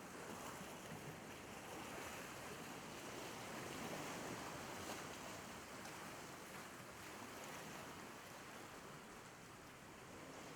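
Sea waves washing on the shore in a soft, steady wash that swells a little and eases off again.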